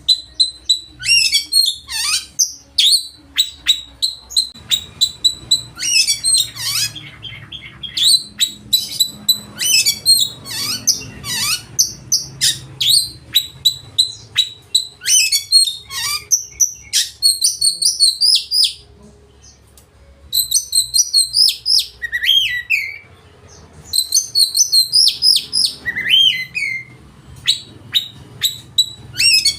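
Oriental magpie-robin (kacer) singing loudly in long, rapid phrases of varied whistles, trills and learned mimicked notes, its full song repertoire. The song breaks off briefly about two thirds of the way through and again a few seconds later.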